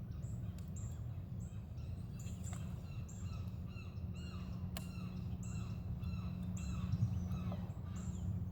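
Several birds calling: a short high chirp repeated about twice a second, with lower falling and rising calls among it. A steady low rumble runs underneath.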